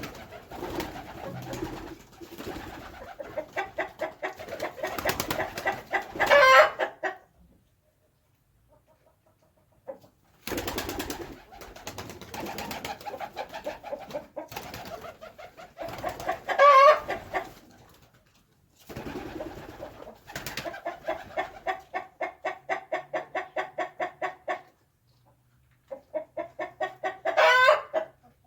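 Domestic birds calling in bouts: runs of quick, evenly repeated calls, each run ending in one louder call that rises in pitch. This happens three times, with short pauses between.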